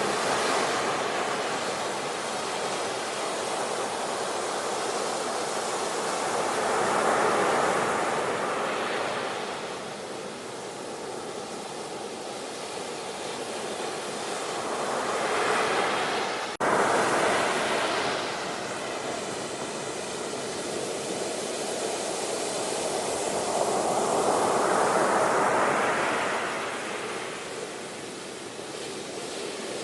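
Ocean surf: waves washing in, the rush of water swelling and fading about every eight seconds. There is a brief sharp break in the sound a little past halfway.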